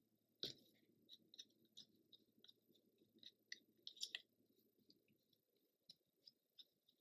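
Faint, irregular small clicks and rustles from hands handling craft materials, with a slightly louder click about half a second in and a cluster near four seconds.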